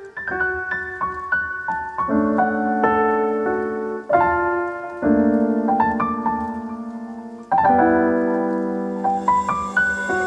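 Background music: a soft piano melody over sustained chords, with a new chord every second or two.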